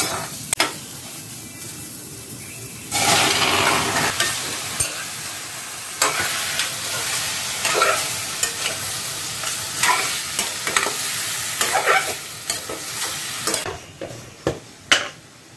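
Sliced onions sizzling in a hot, dry steel kadai with no oil, stirred with a steel ladle that clicks and scrapes against the pan. About three seconds in, the sizzle suddenly gets much louder and harsher as raw chicken pieces go into the hot pan, with ladle clinks throughout. It dies down near the end.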